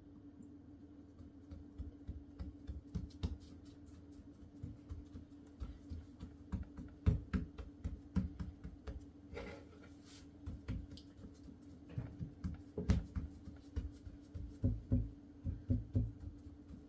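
Irregular light knocks and clicks of objects being handled by hand, with a brief rustle partway through, over a steady faint hum.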